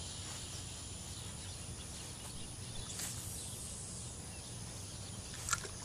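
Quiet outdoor ambience: a steady low background rumble with faint bird and insect sounds, a soft high hiss about halfway through and one brief sound a little before the end.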